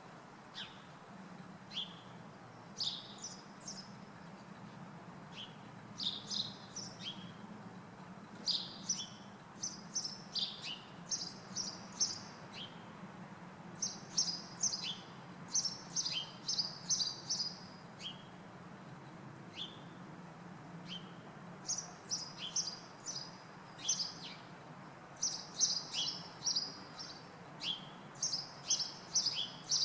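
Small birds perched in a tree chirping: many short, high chirps, some dropping in pitch, in loose clusters that come thicker in the second half, over a steady low hum.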